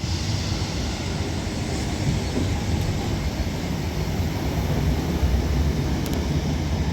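Northern Class 769 multiple unit arriving at the platform: a steady rumble of wheels and traction, heaviest in the low end, with an even hiss above it.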